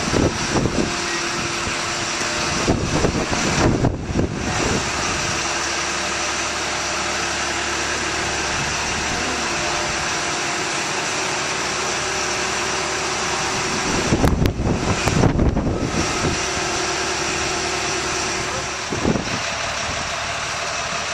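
A Stearman biplane's radial engine running steadily. A few louder low rumbling bursts come over it, around three seconds in and again around fifteen seconds in.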